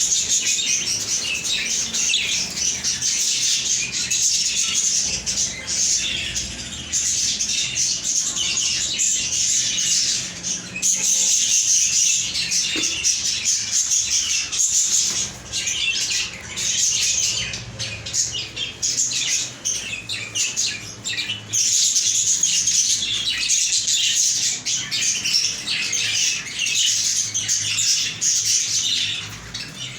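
Pet budgerigar chatter: continuous rapid chirping and chattering, with a few short lulls.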